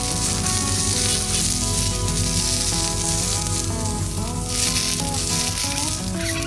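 Asparagus spears sizzling steadily in olive oil on a small iron griddle over a gas burner.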